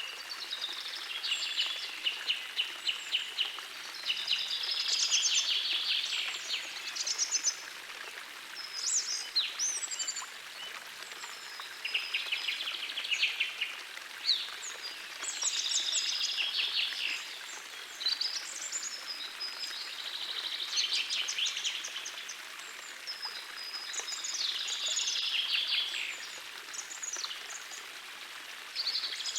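Songbirds singing in short trilled and whistled phrases, one every two to three seconds, over the steady hiss of a gently flowing forest stream.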